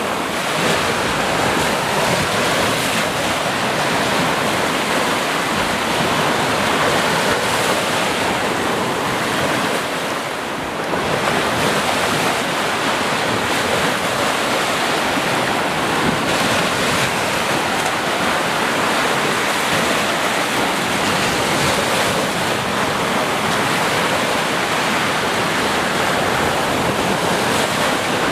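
Sea surf washing onto a shore in a continuous, steady rush, easing slightly for a moment near the middle.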